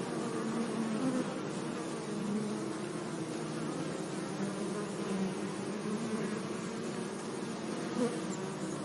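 Bees buzzing, several overlapping hums wavering in pitch, with one louder buzz briefly near the end.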